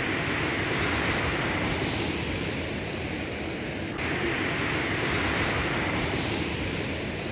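Steady outdoor rushing noise that swells and eases twice, with a sudden break about four seconds in.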